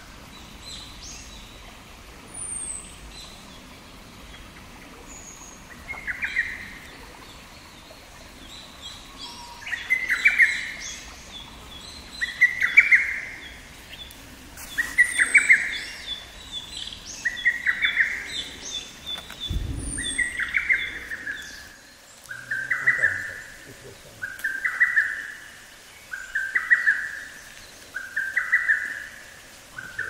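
A wild bird repeats one short call about every two seconds, beginning about six seconds in and going on steadily, while other small birds give thin high chirps in the background.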